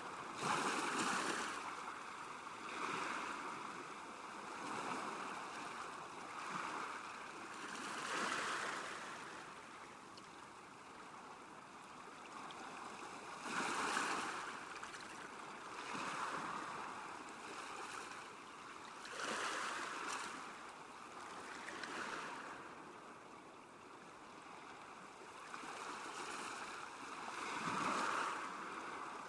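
Small waves lapping at a lakeshore, each wash swelling and fading every two seconds or so, with a few stronger ones breaking in now and then.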